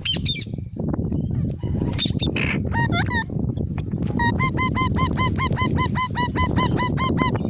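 Indian ringneck parrot squawking: two calls about three seconds in, then a fast run of repeated squawks, about four a second, from about four seconds in until near the end. A steady low noise runs underneath.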